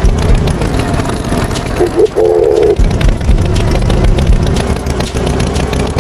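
Cartoon farm tractor engine running with a rough, steady rumble, and a short pitched tone about two seconds in.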